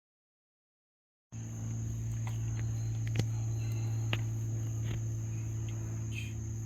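Night insects, crickets, chirring in a steady high-pitched chorus that starts about a second in, over a low steady hum. A few sharp pops from a campfire crackling come through now and then.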